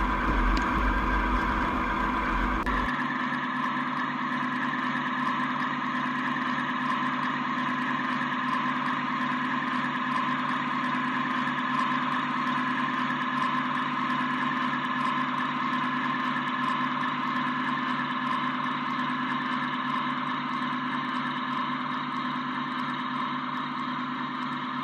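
LGB G-scale model train running, a steady even hum of several tones held throughout. A deeper rumble underneath drops away about three seconds in.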